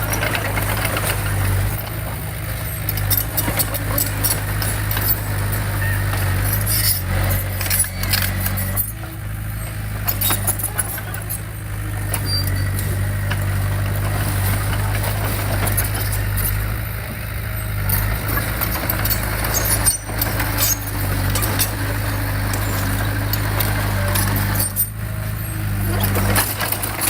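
Bulldozer diesel engine running steadily under load, with frequent sharp metallic clanks and rattles over the drone.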